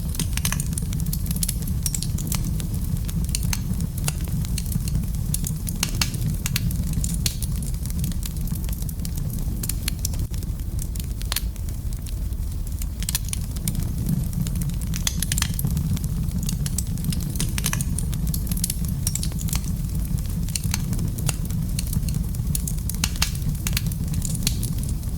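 Fireplace fire crackling: irregular sharp pops and snaps, some in quick clusters, over a steady low rumble.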